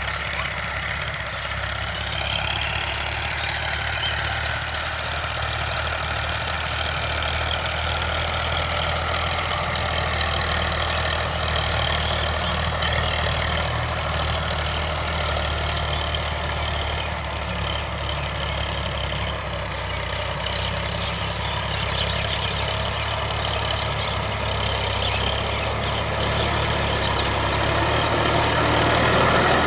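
Sonalika DI 745 tractor's diesel engine running steadily, with only slight drifts in pitch.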